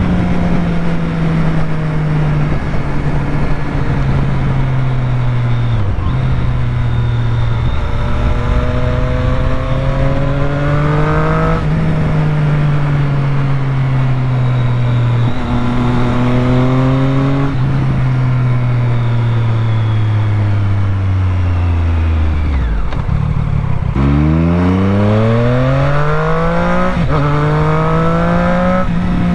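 Triumph Street Triple 765's inline three-cylinder engine under riding, its revs rising and falling with several gear changes. About two-thirds of the way through it winds down slowly off the throttle, then pulls hard up through the gears in quick steps near the end.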